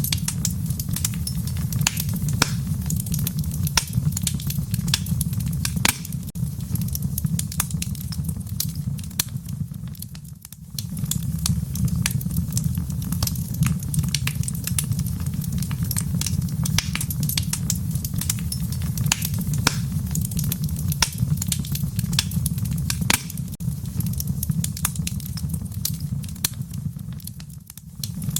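Fire in a fireplace crackling: scattered sharp pops and snaps at random over a steady low rumble. The sound dips briefly about ten seconds in and again near the end.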